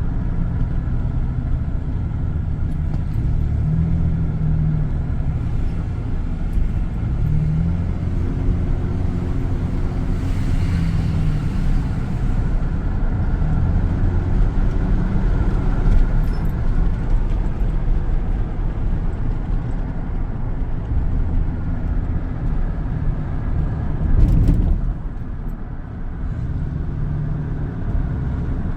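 Car driving along the road: a steady low engine and road rumble that rises and falls a little in pitch, with a brief louder knock about 24 seconds in.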